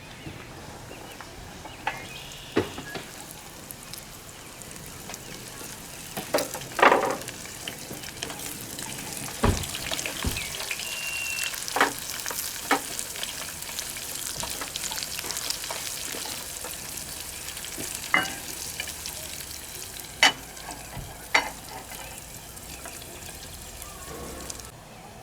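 Onions and carrots frying in a pan, a steady sizzle that gets louder about a third of the way through, with a utensil stirring and knocking against the pan a dozen or so times.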